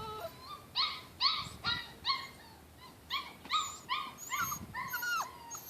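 Portuguese water dog puppy whining in a run of short, high whimpers, about two a second, starting about a second in.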